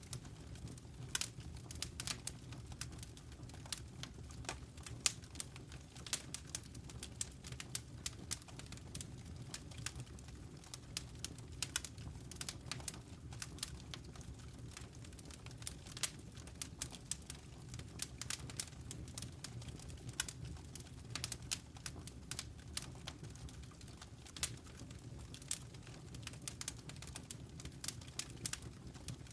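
Fireplace fire crackling: irregular sharp pops and snaps, several a second, over a low steady rumble of burning.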